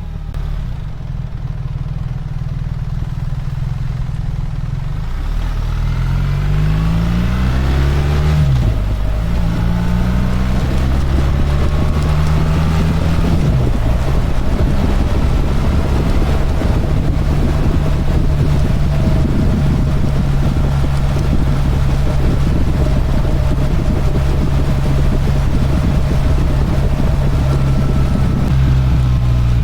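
BMW R1300 GS boxer-twin engine accelerating through the gears: the revs climb, drop at an upshift about eight seconds in, climb again and drop at a second upshift a few seconds later, then hold steady at cruising speed with wind noise.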